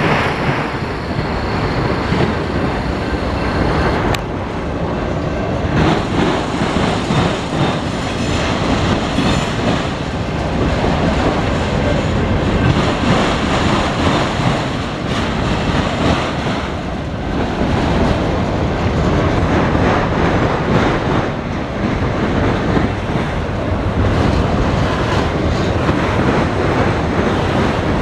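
Local freight train rolling past at close range, its wheels clattering steadily over the rail joints.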